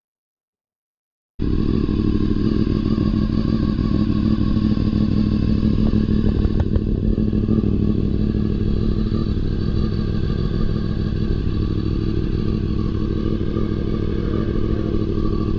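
2001 Honda VFR800's V4 engine idling steadily on fresh oil, warming up so the oil level can be checked in the sight window. It cuts in abruptly about a second and a half in, after silence, with a faint click partway through.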